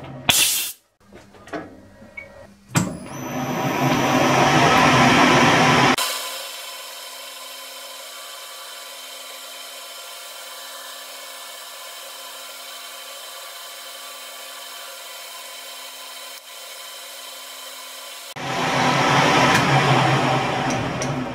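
Metal lathe running and cutting a metal workpiece, a loud steady grinding hiss over the motor's hum, with a few sharp clicks in the first three seconds. About six seconds in the cutting noise drops away to a quieter steady hum for roughly twelve seconds, then the cutting resumes.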